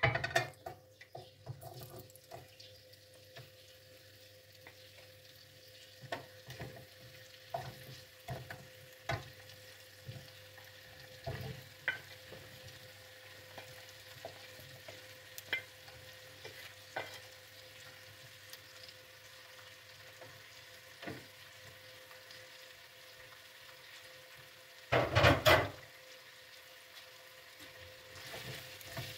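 Flour-dusted zucchini sticks dropped into hot olive oil in a nonstick frying pan, sizzling with scattered sharp pops and clicks as the pieces land. One louder burst of noise about a second long comes near the end.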